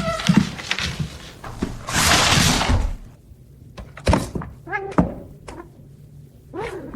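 Domestic cat meowing in short calls, a few times, among thumps and knocks of things being bumped. There is a loud hiss lasting about a second, about two seconds in.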